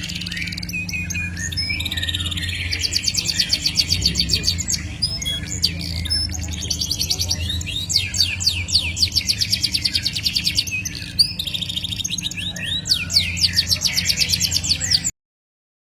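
Caged songbird singing long, rapid trills of quickly repeated sweeping notes over a steady low hum. It cuts off abruptly near the end.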